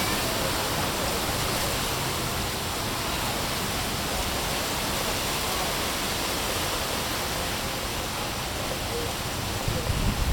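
Steady rushing of sea surf, with wind rumbling on the microphone that gusts harder just before the end.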